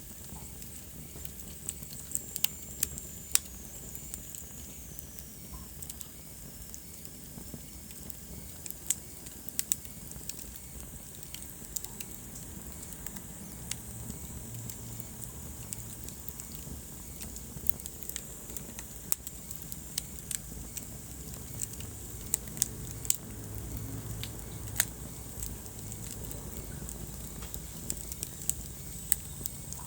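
Wood fire burning in a fireplace: irregular sharp crackles and pops over a low, steady rumble of flames. A faint high whistle slides down in pitch a few seconds in.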